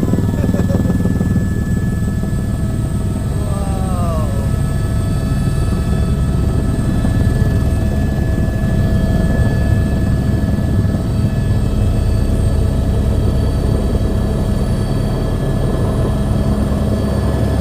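Helicopter turbine and rotor running steadily: a dense low rotor chop under a steady high whine, cutting off suddenly at the end.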